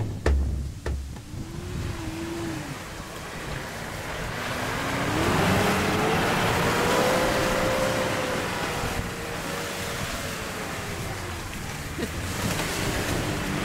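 Mitsubishi Pajero's 2.8-litre turbo diesel engine revving, its pitch climbing from about four seconds in to a peak and then easing off, under a steady rush of wind noise on the microphone.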